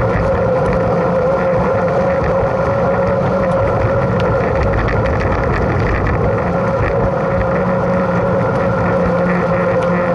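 Mountain bike riding at speed: a steady tyre hum and drone, with wind on the microphone and light scattered rattles.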